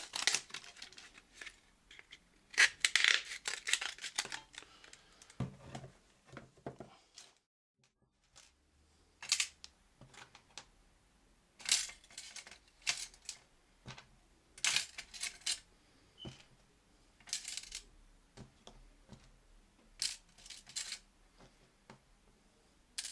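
Small kit items being handled and set into a metal tin on a tabletop: irregular clicks, light metallic clinks and brief rustles, with short pauses between them.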